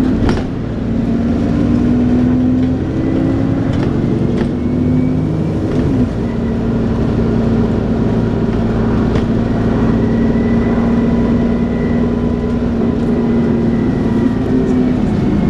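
Dennis Trident 2 double-decker bus running under way, its engine note shifting in the first few seconds and then holding steady. A faint high whine of the kind enthusiasts call 'hoovering' comes in about ten seconds in, with a few sharp knocks from the bus over the run.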